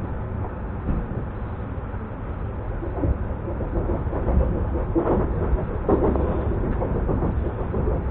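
ES2G Lastochka electric train running along the track, heard from inside the carriage: a steady low rumble with wheel clicks and rattles, busier around five to six seconds in.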